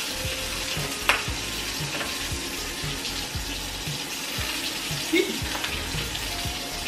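Sausage grease and pancake batter frying in pans on an electric stove: a steady sizzle. A single sharp click about a second in, with background music keeping a low steady beat.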